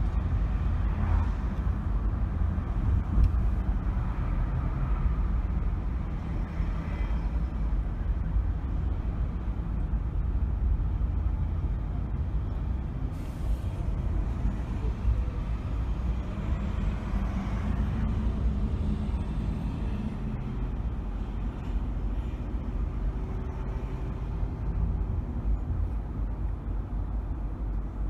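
Steady low road and engine rumble of a car driving through city traffic, with other vehicles passing and a brief hiss about halfway through.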